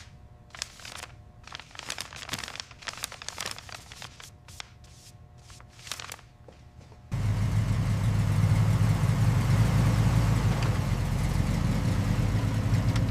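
A few light clicks and rustles, then about seven seconds in a car engine starts abruptly and keeps running steadily and loudly.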